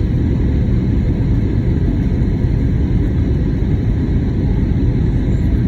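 Steady low rumble of airflow and engine noise inside the cabin of an Airbus A320neo in flight, with its CFM LEAP-1A turbofans running at an unchanging setting.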